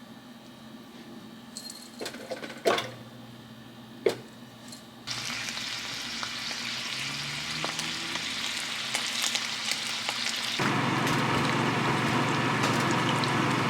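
A couple of sharp knocks, then bacon sizzling in a frying pan, starting suddenly about five seconds in as a steady hiss and getting louder about ten and a half seconds in.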